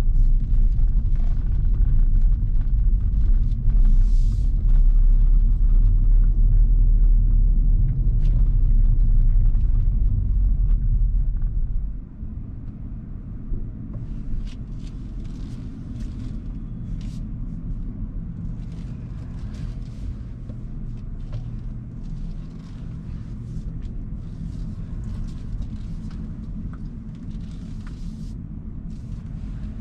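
Hyundai Kona Hybrid driving, with a loud low rumble of road and tyre noise that drops off sharply about twelve seconds in and then carries on at a lower, steady level.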